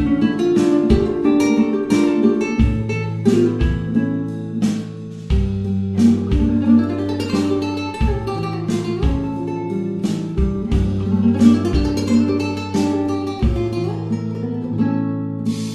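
Music: plucked and strummed acoustic guitar in a Spanish or Latin style over a steady bass line.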